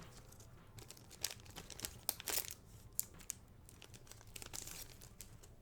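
Foil booster pack wrapper crinkling and tearing, in clusters of sharp crackles from about one to two and a half seconds in and again near the end.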